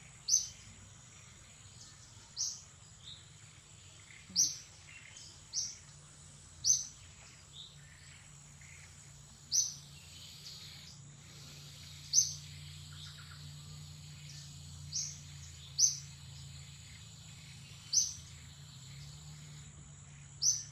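A bird giving about a dozen short, high chirps, one every one to three seconds, over a steady high-pitched insect drone.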